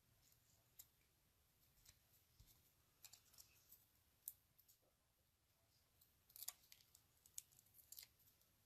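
Near silence, with faint scattered clicks and short rustles of paper cardstock being handled while glitter is applied.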